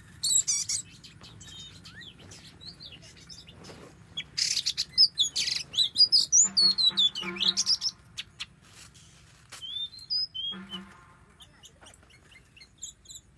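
Oriental magpie-robin singing: quick bursts of varied, high whistled and chirping notes that bend up and down, busiest in the middle, with two lower, harsh calls in between.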